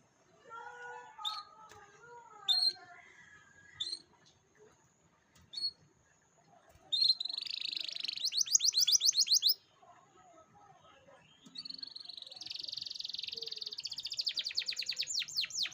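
Canary lure song: a few short chirps, then a fast rolling trill lasting about two and a half seconds, and after a pause a second long trill that runs on near the end.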